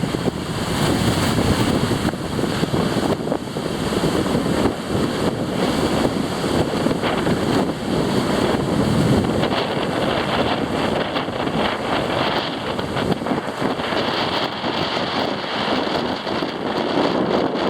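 Strong gusting wind buffeting the microphone in a lake wind storm, with waves washing underneath.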